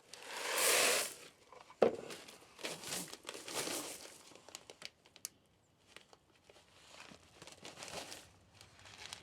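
Dried corn being handled, with crinkling and rustling in short irregular bursts and a sharp knock about two seconds in.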